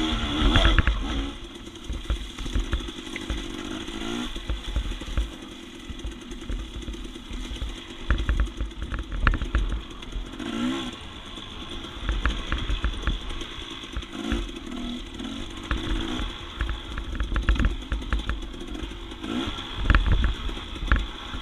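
Dirt bike engine running while being ridden over rough trail, its pitch surging up and down with the throttle, with scattered sharp clicks and clatter and bouts of deep rumble.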